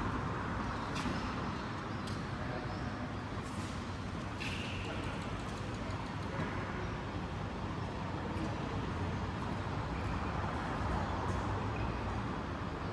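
Steady background hum and hiss with a few faint short knocks in the first half.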